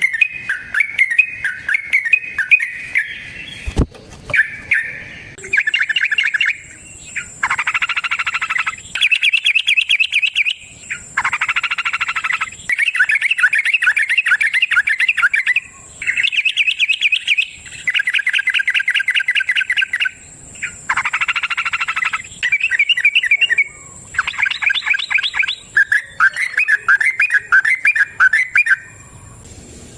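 Yellow-vented bulbul (trucukan) singing its long 'ropel' song: phrase after phrase of rapid trilled, chattering notes, each phrase lasting a second or two with short pauses between.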